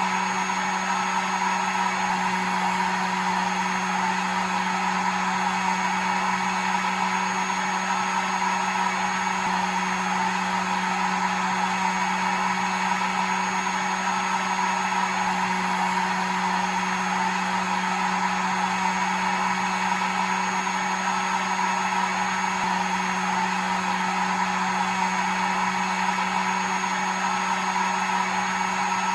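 Hair dryer running continuously at a single setting: a steady rushing of air over an even motor hum and a faint high whine, with no change in level.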